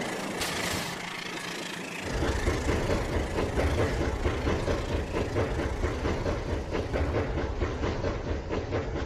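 Rail King battery-powered toy train running on its track, its motor and wheels making a busy, rapidly clicking rattle that gets louder and fuller about two seconds in.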